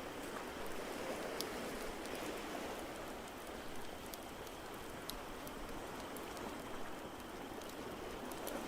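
Layered ambience track: a steady, even, rain-like hiss with scattered sharp small crackles from a fireplace.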